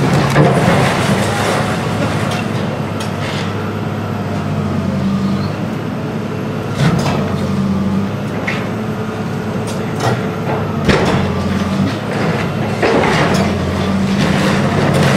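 Heavy demolition machinery running steadily with a low engine hum, broken by several sharp knocks and crashes as the building is torn down.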